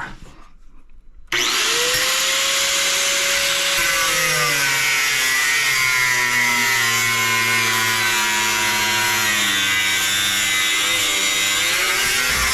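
A handheld power tool starts suddenly about a second in and runs steadily, cutting, its motor pitch sagging and recovering as it works through an air-filter fan motor to reach the windings.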